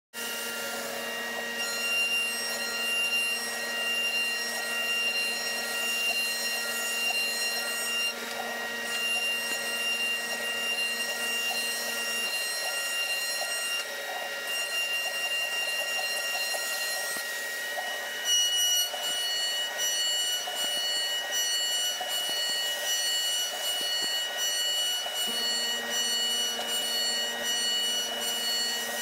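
Milling machine running on the wood of a chair back rest: a steady mechanical whine made of several fixed high tones. Its lower hum drops out about twelve seconds in and comes back near the end, and the upper tones shift about eighteen seconds in.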